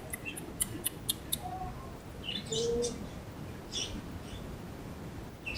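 Black-capped lory, a parrot still learning to call, chirping: a quick run of short, high chirps at about four a second, then two longer, squeaky calls.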